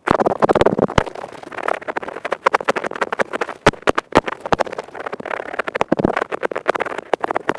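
Earpick scraping fast and hard right at the microphone: a dense, crisp run of rapid scratches and clicks, swelling and easing in short strokes.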